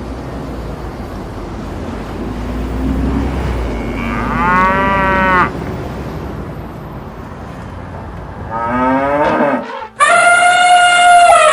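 Cow mooing: one moo about four seconds in, a rising call near nine seconds, and a loud, higher held call over the last second and a half, all over a low rumble.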